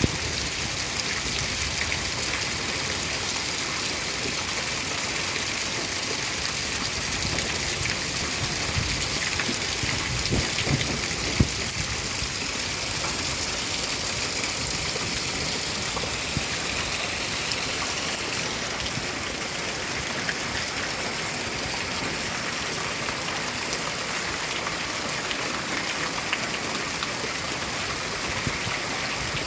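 Steady rain falling, an even hiss, with a few brief low thuds about ten to eleven seconds in.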